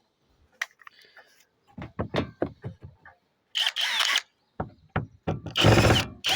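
A handful of quick knocks, then two short runs of a power tool cutting into wooden framing. The second run is longer and the loudest. The wood is being cut out to seat a chimney bracket.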